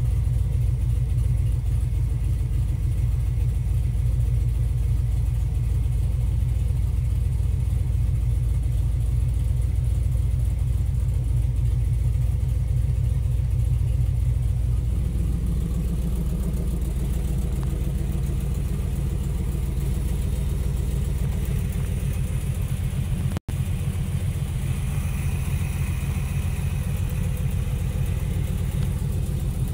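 Chevy engine of a Model T street rod idling steadily at about a thousand rpm. Its low rumble grows fuller about halfway through, with a momentary break in the sound about two-thirds of the way in.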